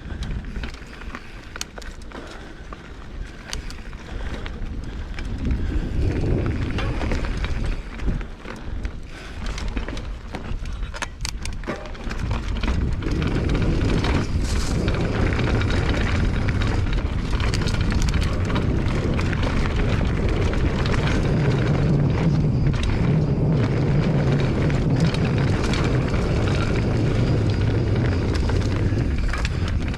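Mountain bike riding a rough trail: tyres rolling over dirt and rock with frequent small knocks and rattles from the bike, and wind rumbling on the camera microphone. It gets louder about twelve seconds in and stays loud, as the ride picks up speed.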